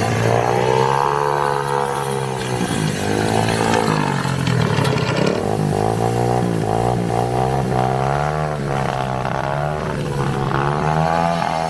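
Dirt-bike engine of a drift trike revving up and down again and again under riding, its pitch climbing and dropping several times.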